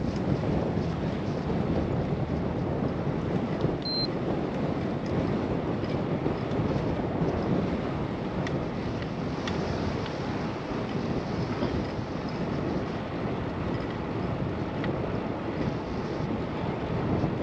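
Wind rushing over a GoPro microphone while cycling, a steady noise with no let-up. A brief high tone sounds about four seconds in.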